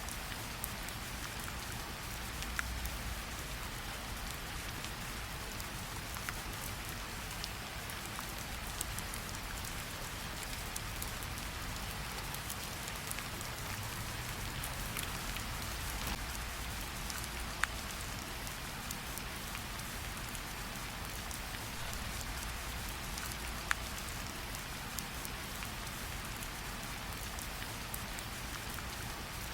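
Steady light rain pattering on tree leaves, with scattered louder single drips.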